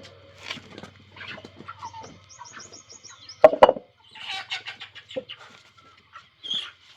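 Chickens clucking with small birds chirping, including a quick run of high chirps a little past two seconds. Two sharp knocks close together about three and a half seconds in are the loudest sound.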